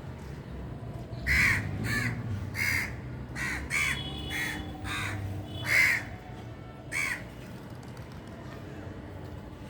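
A crow cawing: about nine short, harsh caws in a loose series, ending about seven seconds in.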